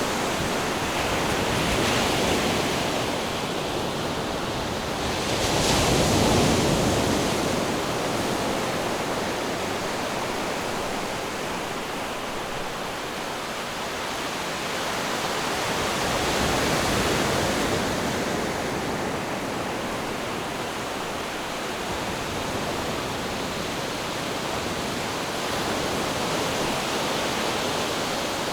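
Ocean waves washing in, a continuous rush of surf that swells and eases, with stronger surges about 2, 6 and 17 seconds in.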